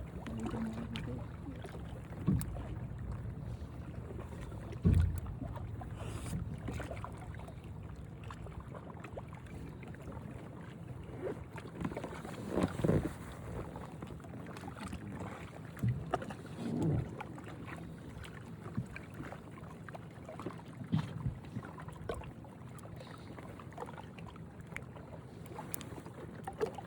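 Boat engine running steadily as a low hum, with wind on the microphone and a few short, louder sounds over it.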